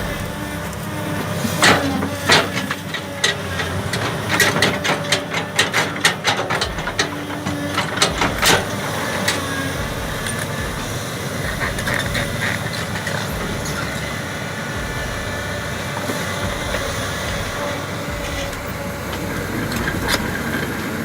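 A heavy vehicle or machine running steadily, with a run of sharp knocks in the first half, thickest between about four and eight seconds in.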